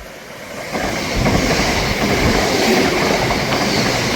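ScotRail train running as empty stock, passing through the station: the sound of the train on the rails builds up about a second in, then stays loud and steady.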